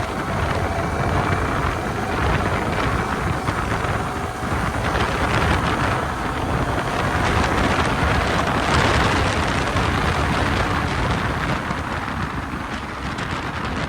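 Wind rushing over the microphone on a moving motorcycle: a loud, steady roar of noise that swells and eases slightly.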